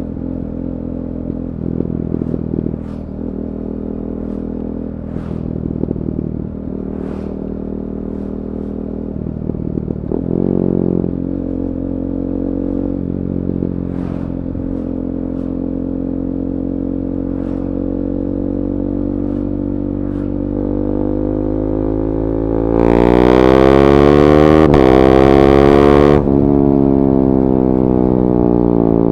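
KTM 390 Duke's single-cylinder engine, breathing through an Akrapovic slip-on and decat pipe, running at low revs with a few short blips, then revving hard and loud late on with a brief dip in pitch before it eases off.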